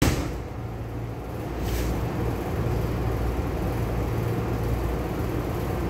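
Cabin noise inside a Taiwan Railways EMU500 electric commuter train: a steady low rumble and hum. It grows slightly louder over the first couple of seconds, with a short hiss about two seconds in.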